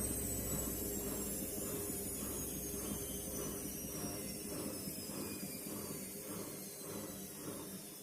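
Front-loading washing machine's drum spinning down after a spin, its motor whine falling steadily in pitch as the level slowly drops. A soft swish repeats about two or three times a second, and the low hum fades out about four seconds in.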